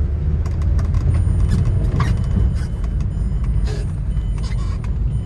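Car driving slowly over a gravel dirt road: a steady low rumble, with frequent sharp clicks and crackles of gravel and storm debris under the tyres.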